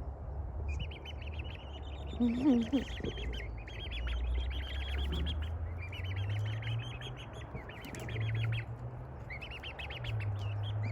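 Birds calling: bursts of rapid, high chirping trills repeated about every second or two, with one louder, lower wavering call a little over two seconds in, over a steady low hum.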